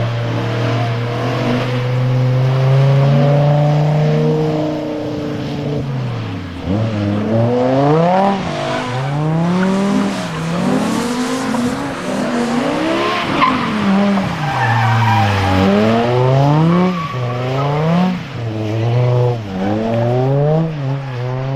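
BMW performance car engine held at steady high revs for a few seconds, then revved up and down repeatedly, about once a second, with tyres squealing.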